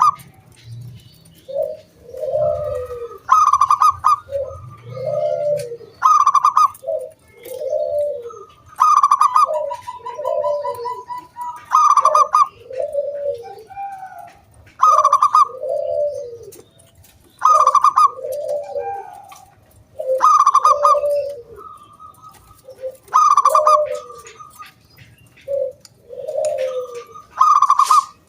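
Zebra dove (perkutut) singing its repeated cooing song. Each phrase opens on a loud, clear note and runs into a string of lower, rolling coos, and the phrases come about every two and a half to three seconds.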